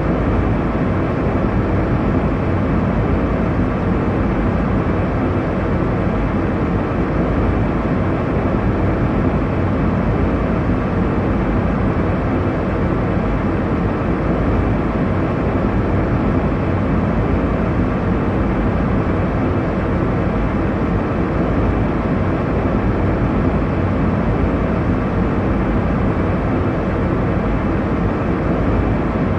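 Steady airliner cabin noise in cruise: an even, deep rushing of engine and airflow noise, heaviest in the low end, with no changes.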